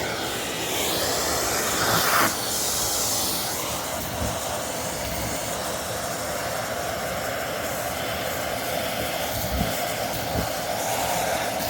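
Vacuum cleaner running steadily with a rush of air, with a couple of louder swishes near the start.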